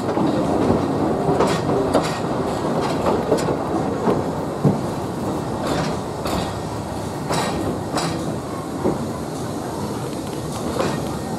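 Narrow-gauge train running along the track: a steady rumble with irregular sharp clicks of the wheels over the rail joints.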